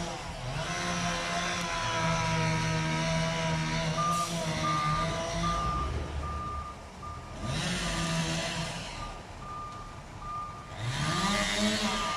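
Heavy diesel vehicle's engine running and revving up several times, with a reversing alarm beeping at an even pace, a little more than once a second, from about four seconds in.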